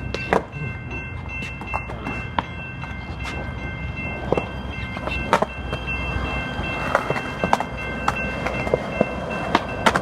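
Skateboard wheels rolling over pavement: a steady low rumble broken by irregular sharp clacks, several of them louder around the middle and near the end.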